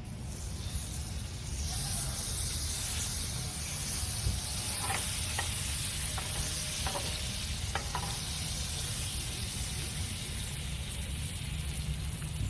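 Butter sizzling in a pot as a grilled cheese sandwich fries, a steady hiss with a few sharp crackles in the middle, cutting off suddenly at the end.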